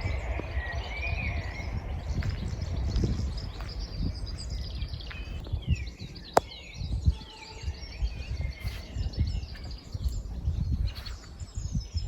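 Small birds chirping and singing, over wind rumbling on the microphone. A single sharp click about six seconds in.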